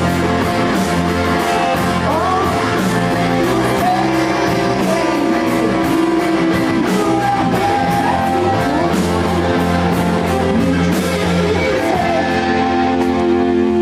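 Rock band playing live: electric guitar and a rhythm section under a singer's vocal line.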